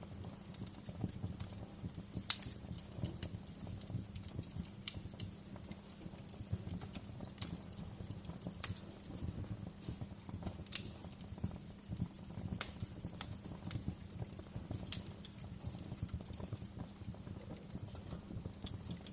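Wood fire crackling in a fireplace: irregular sharp pops and snaps, the loudest about two seconds in, over a steady low rumble of the burning fire.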